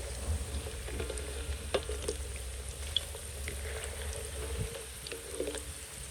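Food sizzling as it fries in a pan, with scattered small clicks like a utensil stirring.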